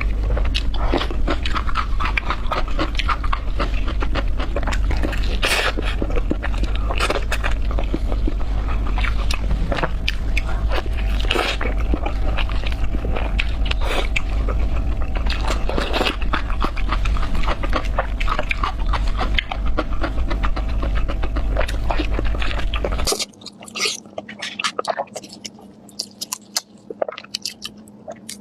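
Close-up chewing and biting of pork chops: a dense stream of wet clicks, smacks and crunches over a steady low hum. About 23 s in the hum cuts off suddenly and the chewing goes on quieter and sparser.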